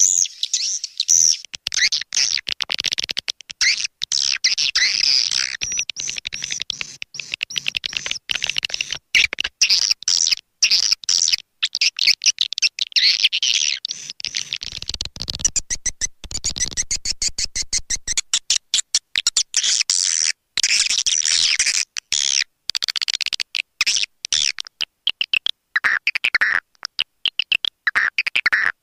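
Swiftlet lure call recording: dense, rapid high chirping and twittering, broken by many brief dropouts to silence.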